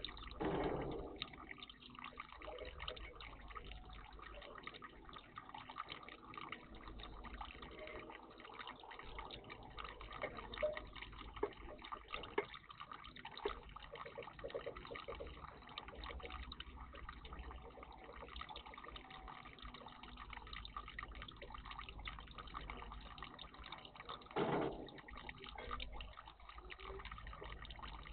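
Water splashing and dripping in a garden bird bath, with many small drips and two louder splashes, one just after the start and one near the end.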